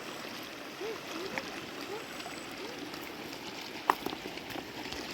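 A river flowing steadily, with a few faint short voice sounds and one sharp knock about four seconds in.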